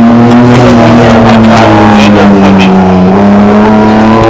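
Drift car's engine held at high revs through a slide, running loud and steady, its pitch sagging a little and then climbing again about three seconds in.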